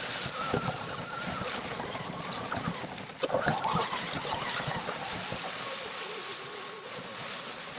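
Electric RC truck's motor whining, its pitch rising and falling with the throttle, over a constant crackle and rustle as it drives. The driver says the truck's battery is going dead.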